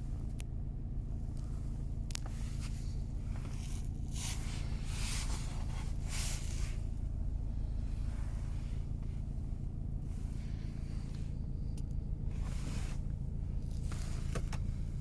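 BMW 525d two-litre twin-turbo diesel engine idling, a steady low hum, with a few brief rustling noises now and then.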